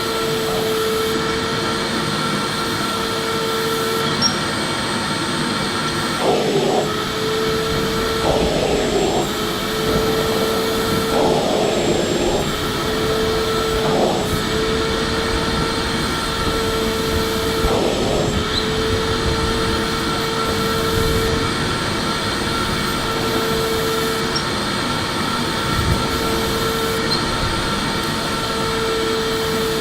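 Electric vacuum cleaner running steadily: a continuous rushing airflow with a motor hum. There are a few brief irregular changes in the airflow in the middle.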